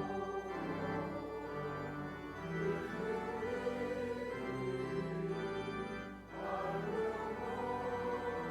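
Organ music playing sustained chords, with voices singing along. There is a short break in the sound about six seconds in.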